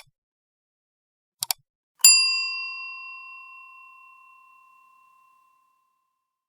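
Two quick double clicks, then a single bright bell ding that rings out and fades over about three seconds.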